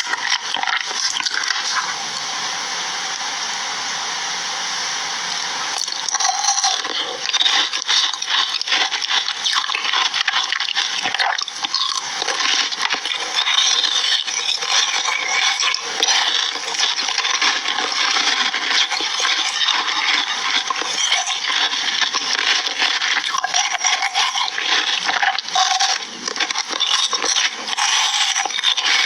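Food crunching and crackling close to the microphone: a dense crackle full of fine clicks that turns busier and more clicky about six seconds in.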